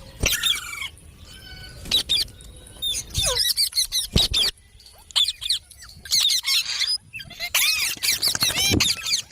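Parrots calling: rapid runs of short, high, squeaky chirps and squawks, with a few sharp knocks among them and a brief lull in the middle.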